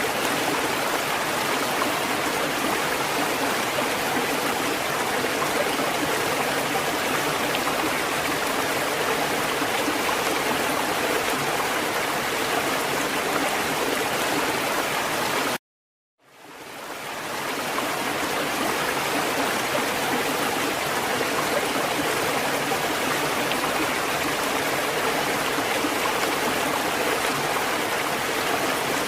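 Steady, even rush of water with no rising and falling swells. About halfway through it cuts out to silence for about half a second, then fades back in over a couple of seconds.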